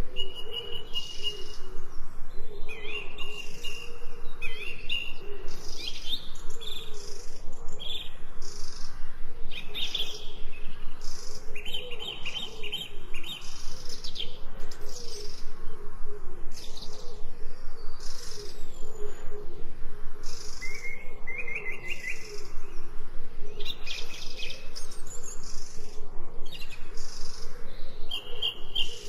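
Several wild birds chirping and singing, short calls and trills overlapping one another without a break, with a fainter low wavering sound underneath.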